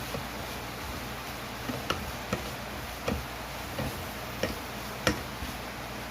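A handful of sharp, irregular taps or clicks, about six in all between two and five seconds in, over a steady background hiss.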